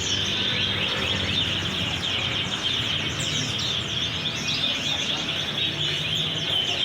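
Many caged songbirds chirping and twittering at once: a dense, unbroken chatter of short, quick downward-sweeping chirps.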